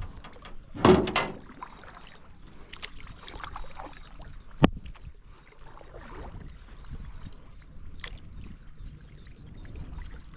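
Canoe paddling on a lake: paddle strokes with water splashing and dripping, a louder splash about a second in and one sharp knock about halfway through.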